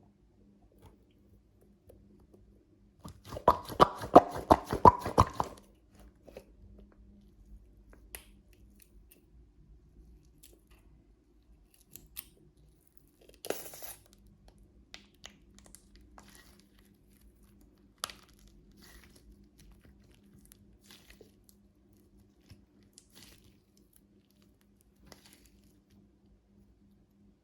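A stress toy being worked open by hand, with a dense crunching crackle for about two seconds early on. After it come scattered small clicks and one short rustle.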